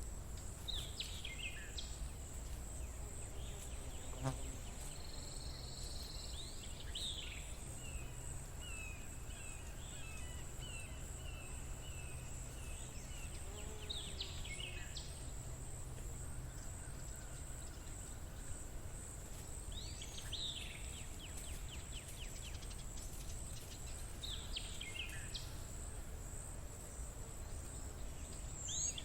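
Nature ambience: a steady, high, pulsing insect trill runs throughout, while a bird repeats a short falling call about every six seconds. A low rumble sits underneath.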